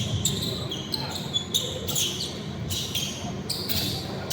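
A basketball game in play on an indoor court: the ball bouncing and sneakers squeaking on the floor in short, repeated chirps over a steady room rumble.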